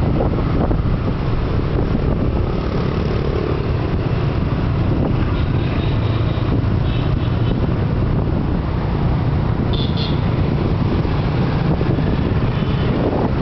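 Motorbike ride through city traffic: steady engine and road noise, with brief horn toots several times.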